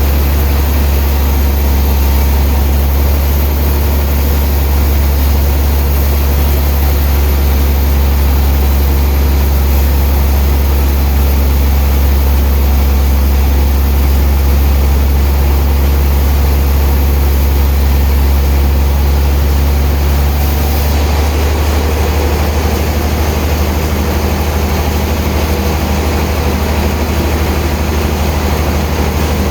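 Heavy sawmill machinery running with a loud, steady deep hum. Its low tone shifts slightly about 21 seconds in.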